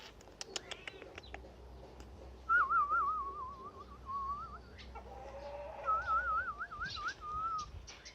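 A warbling whistle in two phrases, the pitch wavering quickly up and down, after a few sharp clicks near the start.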